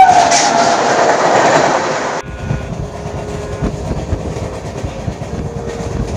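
An oncoming train on the adjacent track rushes past very close in a loud rush of noise, the tail of its horn dropping in pitch as it goes by. About two seconds in this cuts off abruptly to the quieter clickety-clack of the moving train's wheels over the rail joints.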